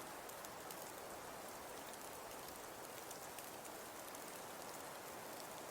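Faint, steady background patter of rain, an even hiss flecked with light drop ticks.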